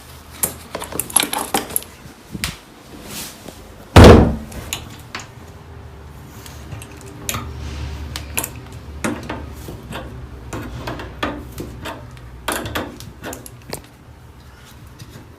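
Metal tools clinking, scraping and knocking against shower fittings as the broken shower head's locking nut is worked off, in irregular clicks with one loud knock about four seconds in.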